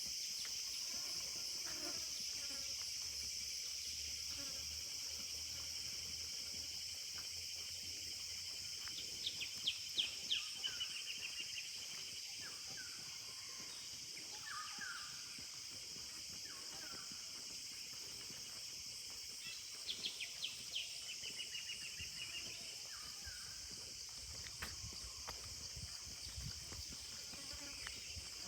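Forest ambience: a steady, high-pitched chorus of insects, with a bird singing the same short phrase twice, a quick run of notes ending in a trill, and other birds chirping. A low rumble comes in near the end.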